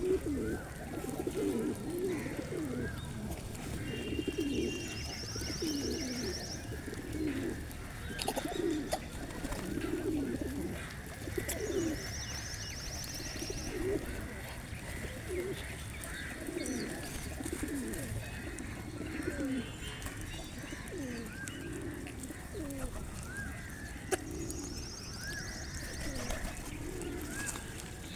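A flock of pigeons cooing without a break, many coos overlapping, with scattered higher chirps from smaller birds. A short, high, buzzing trill comes three times: early on, near the middle and near the end.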